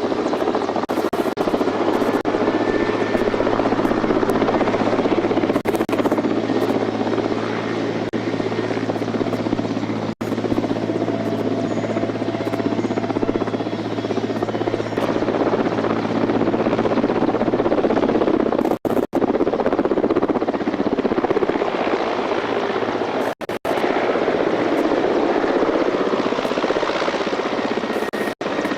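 Helicopter running steadily, the rotor and engine noise with a steady low hum beneath. It breaks off briefly several times where the recording cuts.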